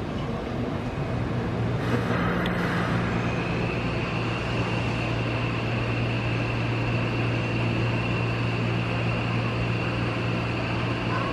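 Nankai 50000 series Rapi:t electric train humming steadily, with a thin high whine setting in about three seconds in.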